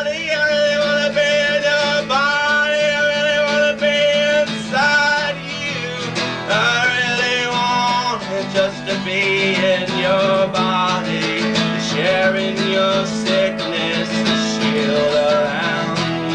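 Live band music: strummed acoustic guitar under a melody that slides and bends in pitch, playing continuously through the song.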